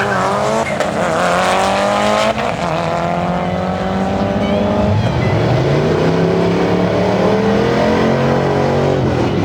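Dodge Ram SRT-10's V10 engine at full throttle down a drag strip, its pitch climbing steadily and dropping at upshifts about two and five seconds in.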